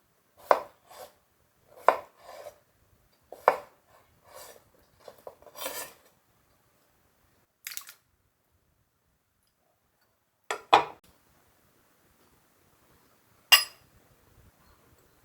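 Kitchen utensils and dishes being handled: a series of short clinks and knocks, several close together in the first six seconds, then a few more spaced seconds apart with silence between.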